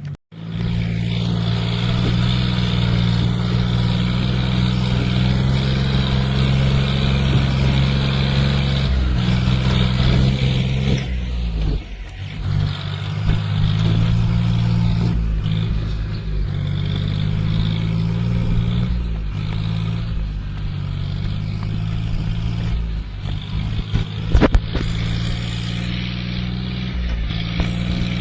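John Deere tractor's diesel engine running steadily while pulling a trolley, its note dipping briefly and changing about twelve seconds in, with a few knocks near the end.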